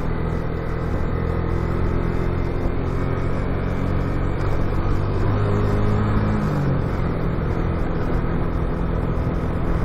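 Motorcycle engine running at a steady cruise, mixed with road and wind noise; the engine note drops lower about six and a half seconds in.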